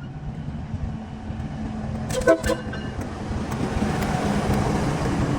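Train approaching: a steady low rumble from the locomotive, a short horn toot about two seconds in, then rising rail and wheel noise as it draws closer.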